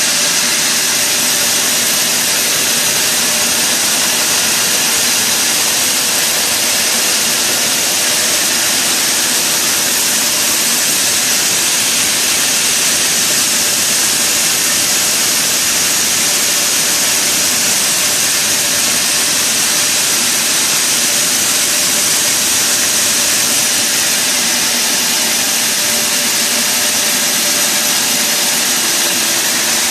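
Sawmill machinery running steadily, a loud even whine and hiss that does not change.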